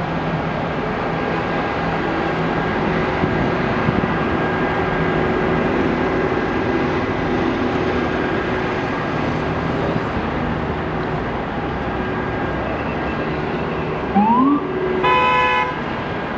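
Steady rumble of engines, then near the end an emergency vehicle gives a short rising siren whoop followed by one horn blast of under a second.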